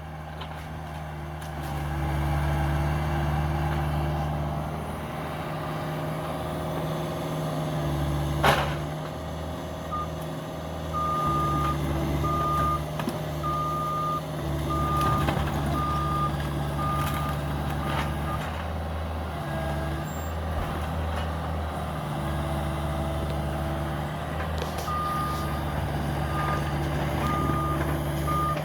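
Diesel engine of a Cat 305 excavator running steadily at demolition work, with one sharp knock about eight seconds in. A backup alarm beeps about once a second in two runs, from about ten seconds in to eighteen, and again near the end.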